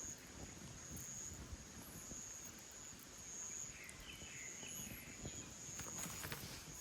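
Insects trilling in high-pitched pulses of about half a second, repeating roughly once a second, over a low uneven rumble.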